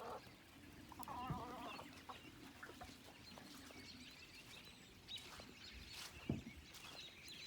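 Bantam chicken giving one short, wavering call about a second in, then only faint scattered sounds, with a low thump a little after six seconds.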